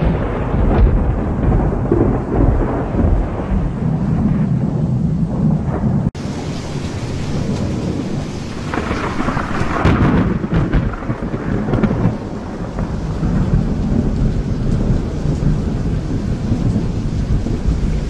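Thunder rumbling continuously over steady rain, swelling louder around ten seconds in. The sound breaks off sharply for an instant about six seconds in.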